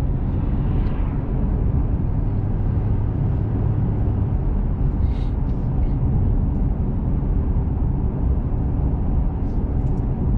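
Steady road and engine noise of a small truck driving, heard from inside the cab, with a constant low rumble throughout.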